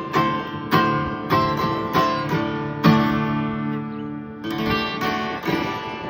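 Acoustic guitar strummed and picked, chords ringing out between strokes, with no singing.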